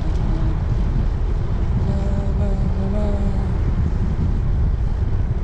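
Wind buffeting the microphone of a camera on a moving road bike: a steady, heavy low rumble, with a brief muffled voice about two seconds in.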